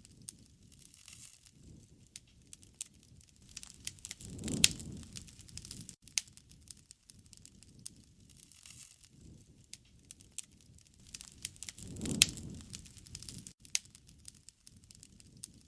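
Wood bonfire crackling, with irregular sharp pops and snaps. It swells louder twice, each time with a loud pop, about four and a half and twelve seconds in.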